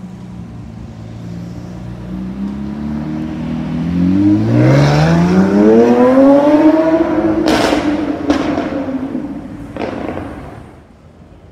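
Lamborghini Sián's V12 running low at first, then revving hard as the car accelerates away, its note rising steeply for a few seconds before levelling off and fading with distance. Two sharp exhaust cracks come just after the peak, and a third comes near the end.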